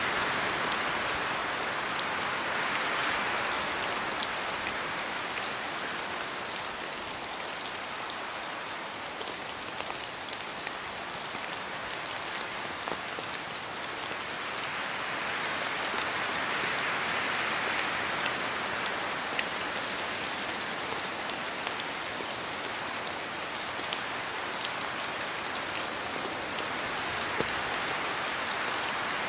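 Steady rain falling, a dense hiss full of small drop ticks, swelling and easing slowly a few times.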